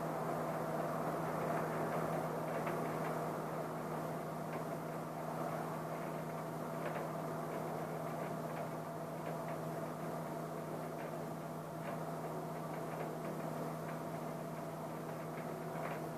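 Steady rain heard from behind a window, with scattered raindrop ticks, over a steady low hum. No thunder is heard.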